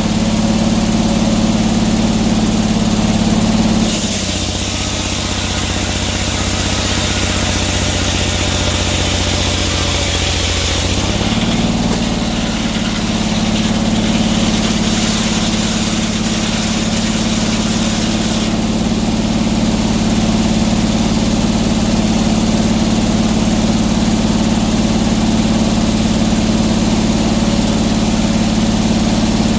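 Sawmill engine running steadily. About four seconds in, its note drops as it comes under load for some seven seconds, then picks back up. A hissing noise runs alongside from about four seconds in until about eighteen seconds in.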